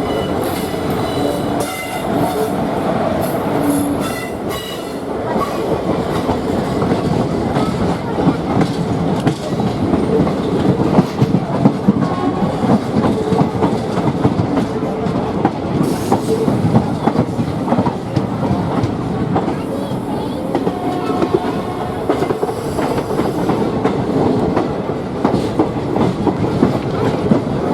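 Indian Railways express train running, heard from on board: a steady rumble with rapid clickety-clack of the wheels over rail joints, growing denser and sharper after about six seconds.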